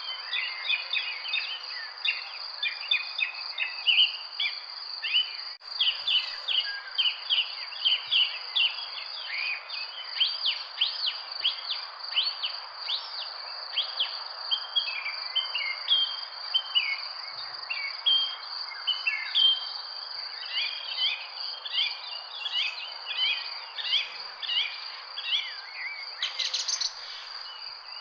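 Many small birds chirping and twittering in a dense, continuous chorus, over a steady high-pitched insect trill. One brief click about five and a half seconds in.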